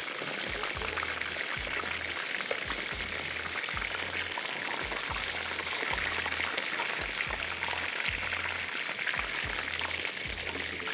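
Chicken kebab patties shallow-frying in hot oil in a pan, sizzling and crackling steadily.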